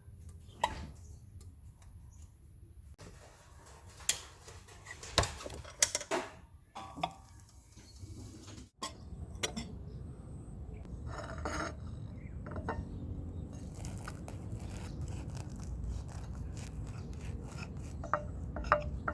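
Kitchen clatter: scattered knocks and clinks of dishes and utensils over a low steady hum.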